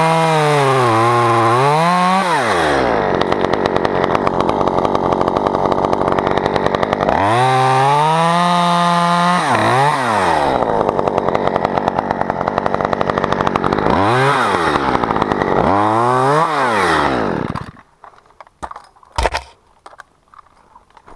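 Two-stroke chainsaw running, revved up and down several times between steadier stretches of cutting into spruce, then shut off near the end, leaving a few faint clicks.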